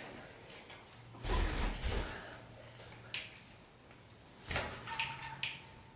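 Knocking and rattling, as of small parrots clambering about a cage, in two bursts: one about a second in with dull thuds, and a sharper, clicking one near the end.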